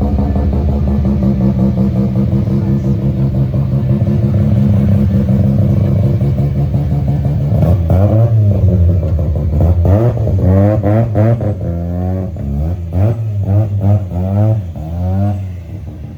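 A rotary-engined car's engine idling steadily, then revved in a series of quick throttle blips that rise and fall in pitch from about halfway through until near the end.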